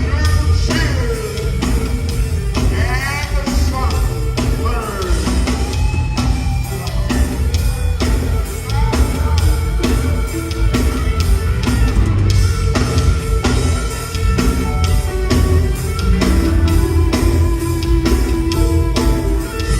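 Live gospel band playing on electric guitar, bass and drum kit with a steady beat, with a voice singing runs in the first few seconds.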